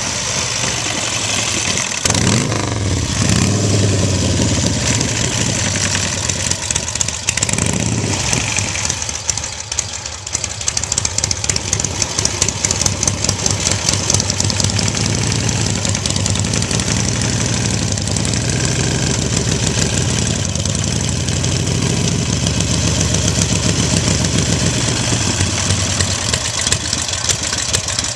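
1956 Harley-Davidson KHK's flathead V-twin running as it warms up after a cold start. The throttle is opened twice in the first several seconds, the pitch rising and falling, and then it settles into a steady, pulsing idle. This is the engine running again after decades in storage.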